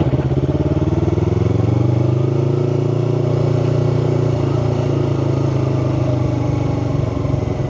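2018 Yamaha R3's parallel-twin engine running as the motorcycle is ridden at low speed. Its pitch rises gently over the first three or four seconds, then eases off a little.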